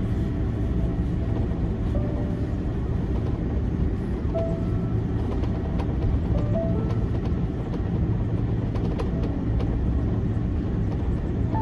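Steady low rumble inside an Airbus A330-300 cabin as the airliner taxis to the gate after landing, with faint music in the background.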